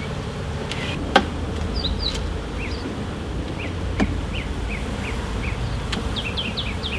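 Honeybees buzzing around an opened hive, a steady hum, with a few sharp clicks about one, four and six seconds in.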